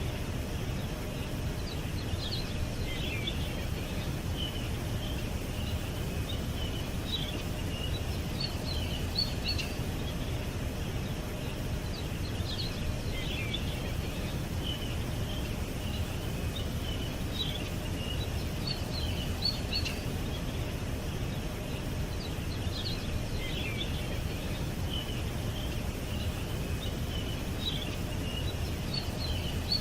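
Small songbirds chirping and twittering in short clusters every few seconds, over a steady low background rumble.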